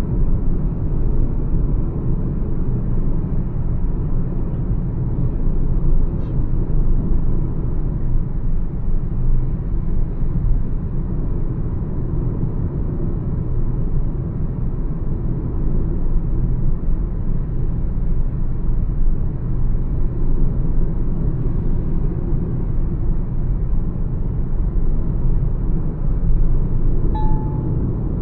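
Mahindra XUV 300 cruising at highway speed: a steady low rumble of road and engine noise with no let-up. A brief faint chirp sounds near the end.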